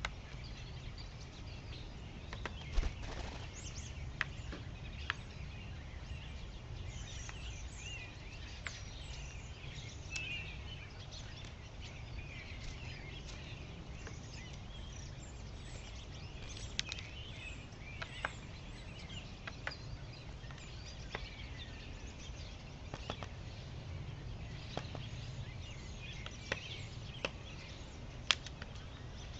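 Small birds chirping and twittering throughout, over a steady low background rumble, with scattered sharp clicks.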